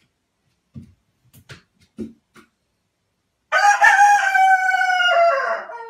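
A rooster crowing: one long crow, slowly falling in pitch, starting about three and a half seconds in after a few faint knocks.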